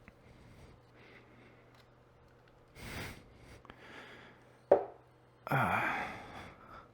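Parts being handled on a workbench: a short rustle about three seconds in, a single sharp knock near five seconds, then a louder scraping rustle lasting about a second, over a low steady hum.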